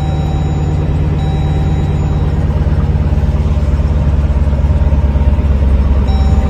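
Car engine and road noise heard from inside the cabin while driving, a steady low rumble that slowly grows louder.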